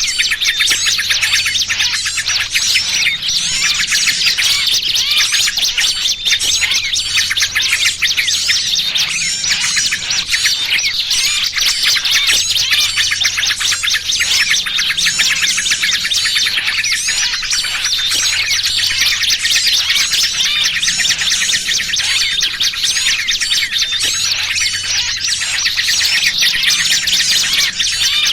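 Dense, unbroken chatter of many small songbirds, high-pitched chirps and quick calls overlapping with no pause. This is a bird-trapping lure mix of busy chatter and the distress calls of a caught small bird, used to draw in wild small birds.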